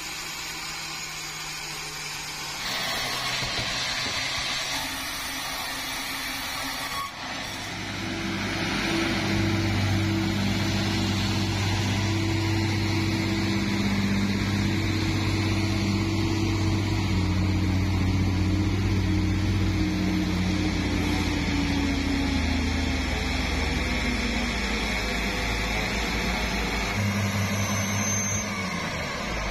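Sawmill machinery running: a noisy whir for the first several seconds, then a steady engine hum takes over, its pitch sagging slightly in the last few seconds.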